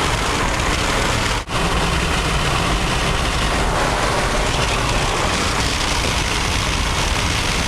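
Steady road and wind noise inside a moving Jeep's cabin at highway speed, with a brief dropout about a second and a half in.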